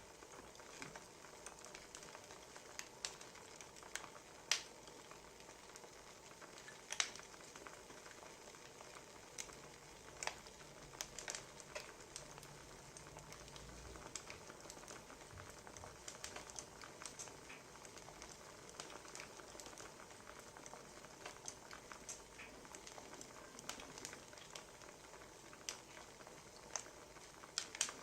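Wood fire crackling faintly, with irregular sharp pops over a soft steady hiss.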